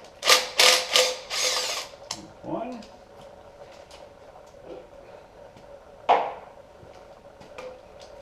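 Power tool running in short bursts, about a second and a half near the start and a brief one about six seconds in, backing out the timing chain guide plugs on a GMC 3.7 L inline five-cylinder Atlas engine.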